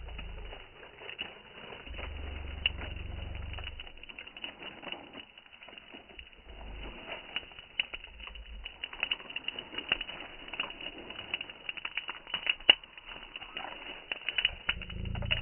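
Wood campfire crackling, with irregular sharp pops that come thicker in the second half and one loud pop late on. Low rumbles come and go underneath.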